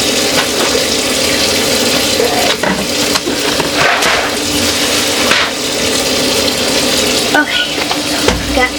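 Water running steadily from a kitchen faucet into the sink while things are washed, with a few short knocks of items against the sink.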